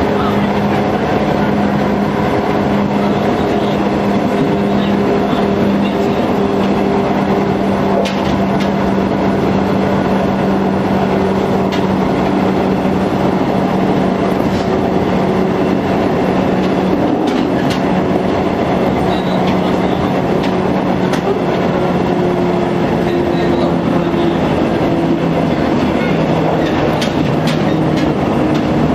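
JNR/JR 103-series electric train heard from inside the motor car (MoHa 103-3501) while running at a steady speed: a steady traction motor and gear hum that drifts slightly in pitch, over wheel-on-rail rumble with occasional clicks from rail joints.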